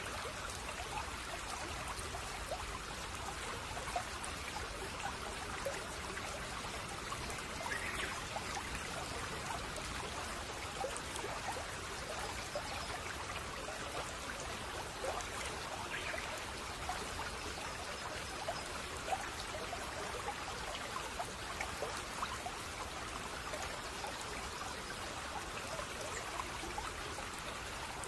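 Shallow stream babbling and trickling over stones, a steady, even burble of water.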